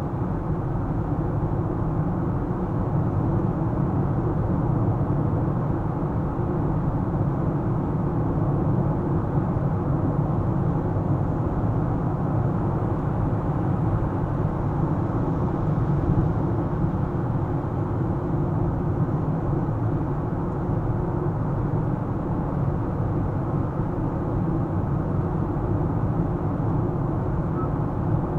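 Car driving, with a steady low rumble of road and engine noise that holds even throughout.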